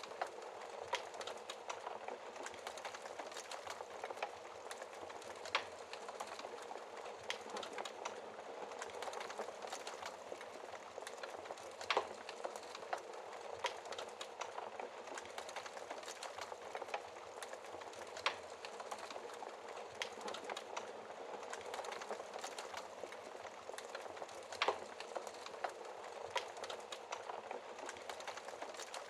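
Wood fire crackling, with frequent small clicks and a sharp louder pop every few seconds, over a steady hiss of rain.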